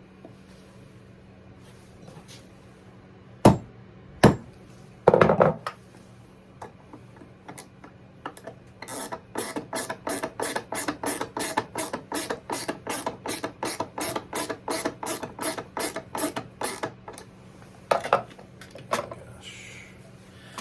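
Ratchet clicking at about four clicks a second for several seconds while screws are driven into a birdhouse's hinge hardware, after a few sharp knocks.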